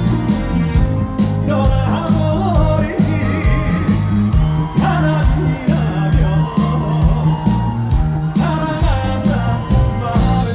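Live trot song: a male singer's voice gliding through the melody over an upbeat band accompaniment with a strong, steady bass beat.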